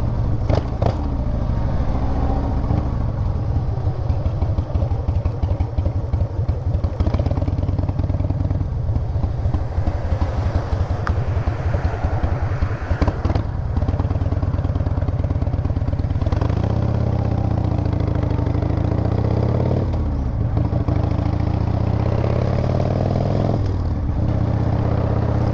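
Harley-Davidson V-twin motorcycle engine running under way, a fast even exhaust pulse. In the second half the engine note drops and picks up again a few times as the rider changes speed.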